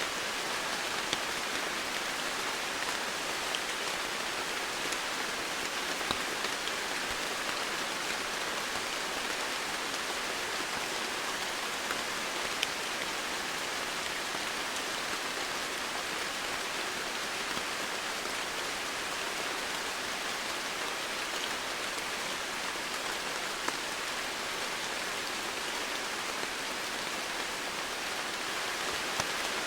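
Steady heavy rain falling on foliage and ground, an even hiss with scattered individual drop ticks.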